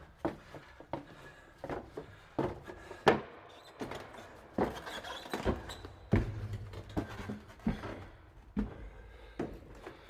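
Footsteps of a person walking at a steady pace, about one step every three quarters of a second.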